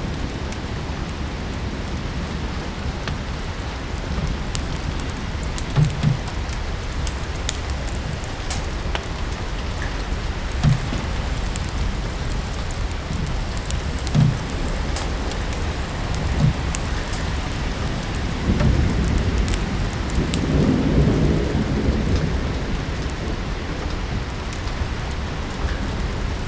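Steady rain with a crackling wood fire, a low rumble of thunder swelling about two-thirds of the way through, and a few dull thumps.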